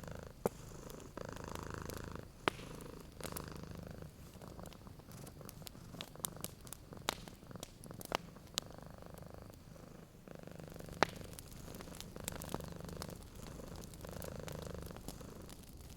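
Domestic cat purring, a low rumble that swells and eases with its breathing every second or two. Wood fire crackling throughout, its sharp pops the loudest sounds.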